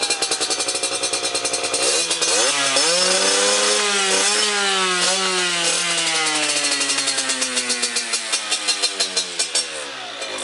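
Yamaha TZR two-stroke motorcycle engine through a Yasuni R1 expansion-chamber exhaust, idling with a rapid pulsing beat, then revved up sharply about two seconds in. It holds high revs for a few seconds and then slowly drops back to idle near the end.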